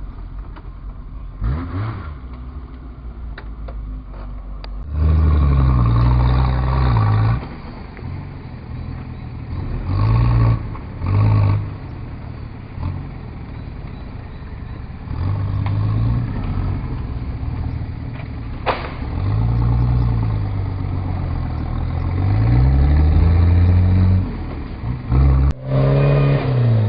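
Off-road 4x4 engine revving up and down in repeated bursts of a second or two, with a few sharp knocks in between.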